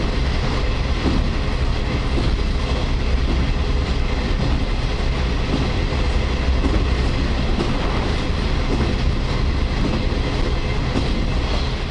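Interior running noise of a KiHa 40/47-series diesel railcar: a steady rumble from the moving car, with the clickety-clack of wheels over rail joints.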